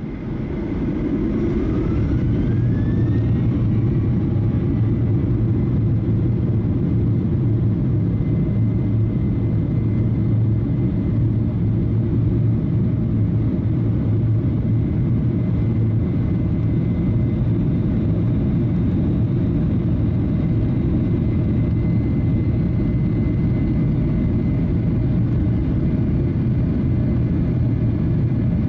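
Boeing 737-900ER cabin noise in flight: the steady low rumble of the CFM56 jet engines and airflow, with a faint rising whine in the first few seconds.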